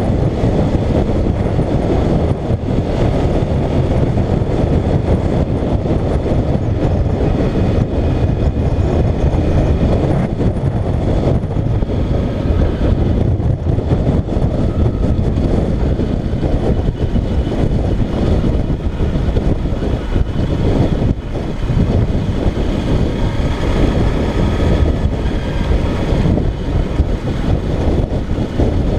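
Motorcycle riding along, heard through a helmet- or bike-mounted action camera: steady, loud wind rush and road noise over the engine's running, with no letup.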